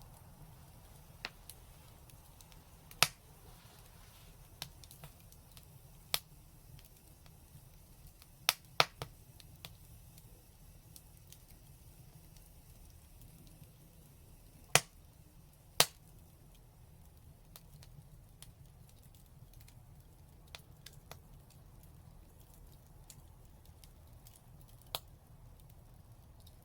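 Wood fire crackling: scattered sharp pops and snaps at irregular intervals, a handful of them loud, with fainter ticks between, over a low steady rumble.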